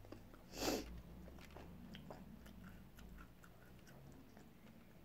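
A person chewing a mouthful of paella, with faint scattered mouth clicks. A short burst of noise, the loudest sound, comes about half a second in.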